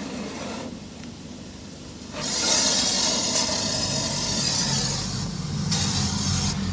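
Car wash water spray hitting the car, heard from inside: a loud hiss starts about two seconds in, eases, and comes again near the end, over a steady low hum.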